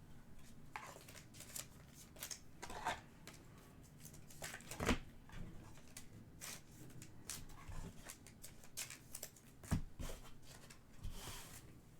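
Trading cards being handled and flipped through by hand, with soft scattered clicks and rustles and two louder knocks about five and ten seconds in.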